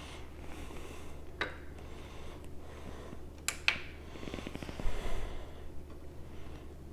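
A few sharp, faint clicks and light handling noise as a knife edge is pressed into the test strip of a BESS edge-sharpness tester. The loudest click comes about three and a half seconds in, followed by a soft bump.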